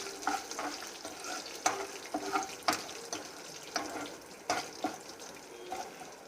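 Whole spices frying in a little oil in a pan, with a faint sizzle and irregular scrapes and clicks of a spoon stirring against the pan.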